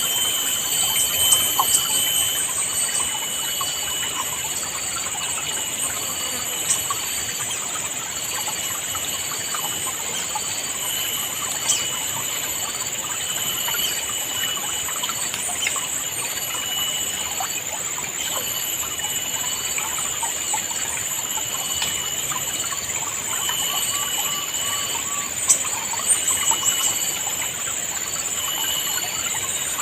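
River water babbling steadily, with birds calling in short repeated high notes and longer whistled tones over a constant high-pitched drone.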